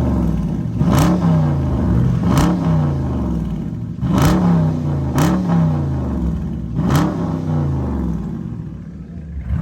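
Muscle car's V8 engine revved five times in quick blips, each climbing and dropping back to idle, over a steady idle.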